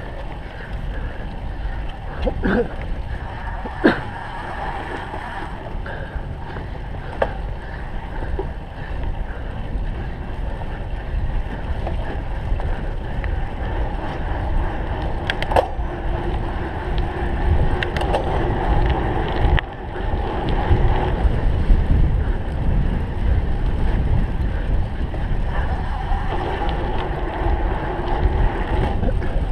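Rumble and rattle of a cyclocross bike ridden hard over rough ground, with wind on the microphone. Several sharp knocks from bumps in the course.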